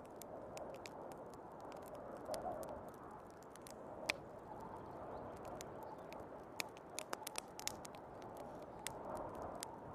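Wood fire crackling, with many scattered sharp pops and snaps, some in quick clusters, over a steady rushing noise of snowstorm wind that swells and eases.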